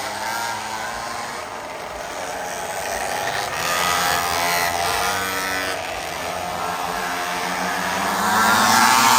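Several 49cc mini bike engines running at high revs together in a race, their pitches overlapping and shifting. Near the end one gets louder with its pitch rising.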